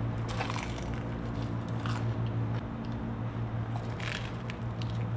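Crunchy hot Cheetos-coated Korean corn dog being bitten and chewed close to the microphone, with a few crisp crackles from the coating, over a steady low hum.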